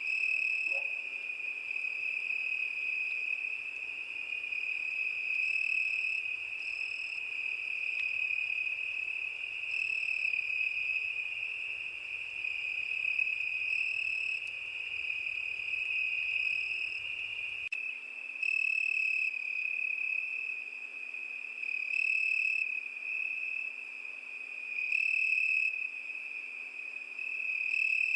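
Crickets chirping in one steady high-pitched trill. About two-thirds of the way through, the trill turns into louder chirp pulses every second or two.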